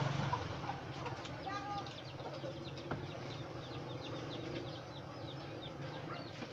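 Small birds, most likely chicks, chirping rapidly and continuously over a faint steady low hum, with a single light click about three seconds in.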